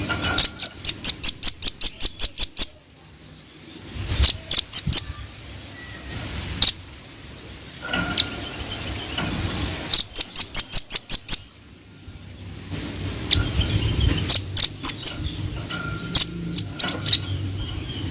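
Velvet-fronted nuthatch (rambatan paruh merah) calling in fast runs of sharp, high chips, about five a second, with short pauses and scattered single notes between the runs.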